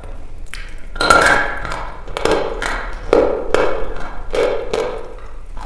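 Dry red chalk being bitten and chewed close to the microphone: an irregular run of sharp, crisp crunches, about two a second.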